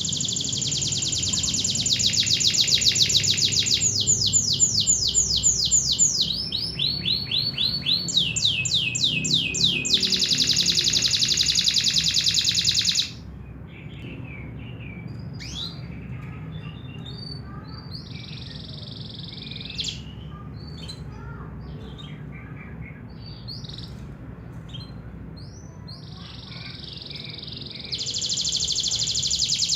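Domestic canary singing long runs of rapid trills and rolls, loud for the first dozen seconds, then only short, quieter phrases, then loud trilling again near the end.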